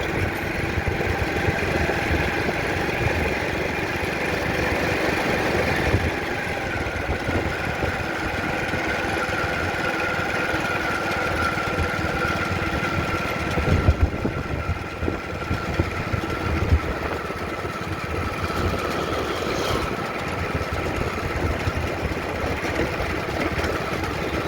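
An engine running steadily with a constant high whine, and two brief knocks a little past the middle.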